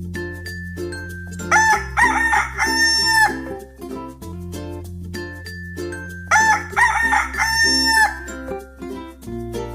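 Rooster crowing twice, each crow about two seconds long, over background music with a steady beat and bass line.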